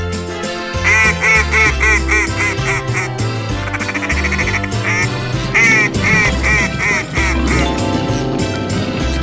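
A duck quacking in quick runs of about four quacks a second, two runs in all, over background music with a steady bass beat.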